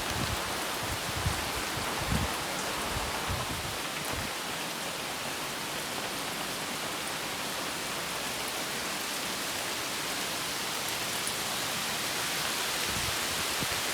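Heavy rain pouring steadily: an even hiss with no pauses. There are a few low bumps in the first few seconds.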